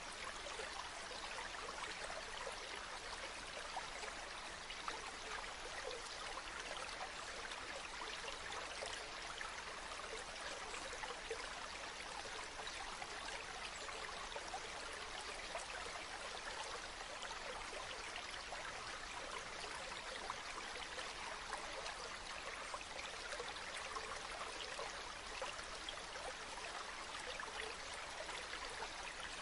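Waterfall: a steady rush of falling and splashing water, even throughout with small splashy flecks.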